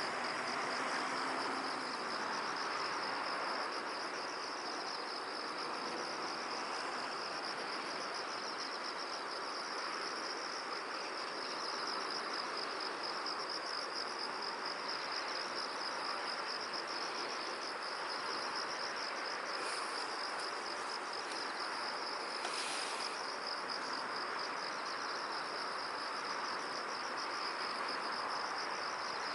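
Insects chirring in a continuous, fast-pulsed high trill over a soft, even rush of wind in an open field. A brief higher rasp cuts in about three-quarters of the way through.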